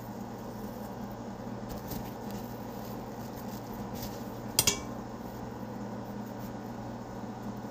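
Steady low room hum with a few faint clicks, and one sharp double clink of kitchenware about four and a half seconds in.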